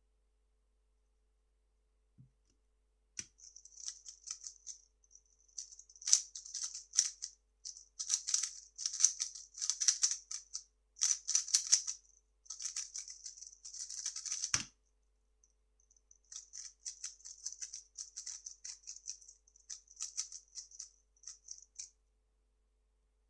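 A 3x3 speedcube being turned fast: rapid bursts of plastic clicking and rattling, with a sharp thump about fourteen and a half seconds in. After a short pause, lighter, more scattered turning clicks follow.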